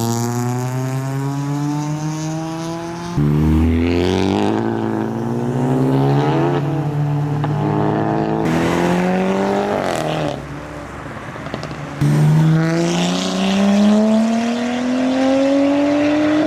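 Modified cars pulling away one after another, each engine's pitch rising as it accelerates, with a sudden change to another car about three seconds in and again near twelve seconds.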